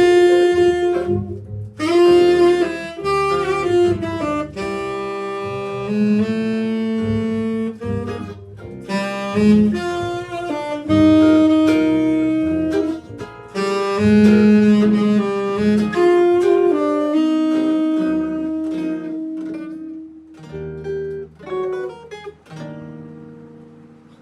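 A jazz band playing, with saxophone-type horns carrying the melody in long held notes over a bass line. The playing thins out and fades away over the last few seconds.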